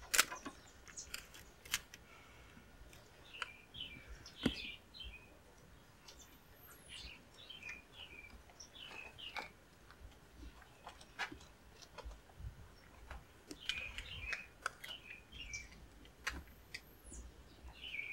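Small birds chirping repeatedly in short, falling chirps, with a couple of thin high whistles. A few sharp clicks come from close handling, the loudest just after the start and about four and a half seconds in.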